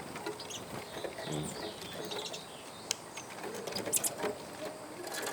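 Small birds chirping faintly, with a few sharp clicks.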